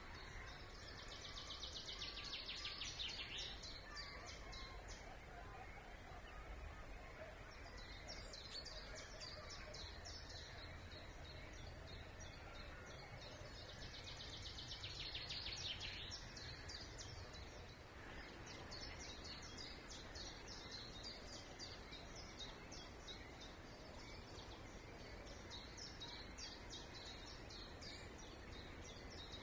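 Songbirds singing over a steady low rumble of distant noise. A fast, dense trill comes twice, about a second in and again around fourteen seconds, and scratchy chattering phrases run through much of the rest.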